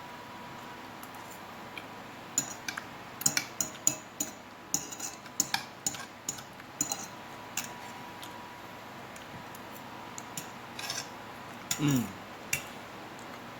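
Metal fork clicking and scraping against a plate in a quick, irregular run of clicks, as spaghetti is eaten. Near the end comes a short low sound that falls in pitch.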